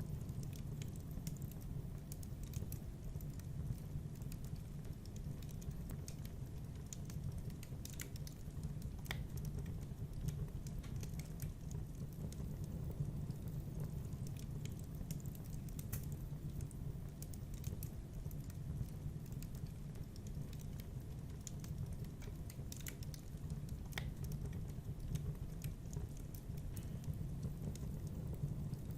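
Wood fire crackling in a fireplace: irregular sharp pops and ticks over a low, steady rumble of the flames.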